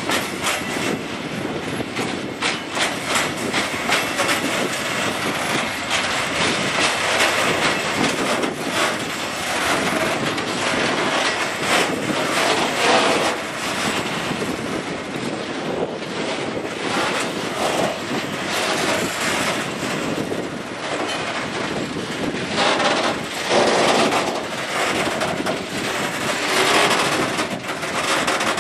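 Loaded log wagons of a freight train rolling slowly past, their wheels clattering steadily over the rails.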